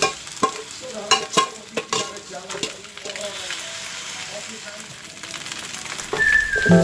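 Stirring in a pan on the stove: a utensil clicks and knocks against the pan several times in the first half, over a steady frying hiss. Soft music comes in near the end.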